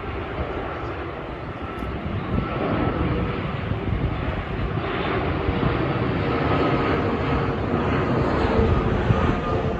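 Airbus A330-300 on landing approach flying by, its Rolls-Royce Trent 700 jet engines making a rushing roar with a steady whine that grows gradually louder as the aircraft nears.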